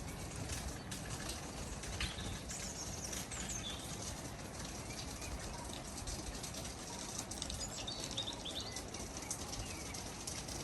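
Birds chirping and trilling, short scattered calls over a steady low background noise.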